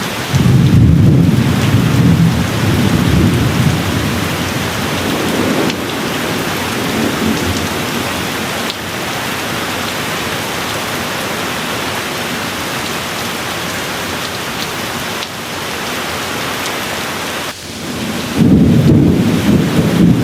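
Steady rain falling with thunder: a low rumble starts just after the beginning and dies away over several seconds, and a second roll of thunder begins near the end.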